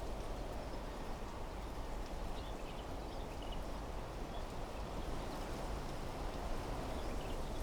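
Wind blowing steadily through desert trees, with a few faint, short bird chirps about two to three seconds in and again near the end.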